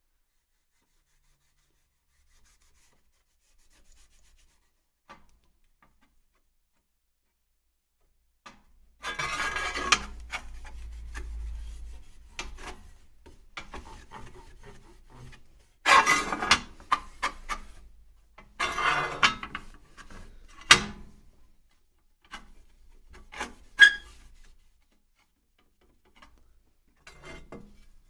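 Scraping on a hard surface in several bursts of a second or two, starting about nine seconds in, with a few sharp clicks among them.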